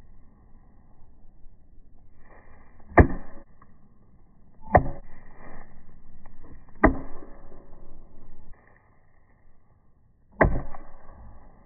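Four sharp strikes of a 3.5-pound axe smashing die-cast toy cars, spaced about two to three seconds apart, each with a short ringing tail.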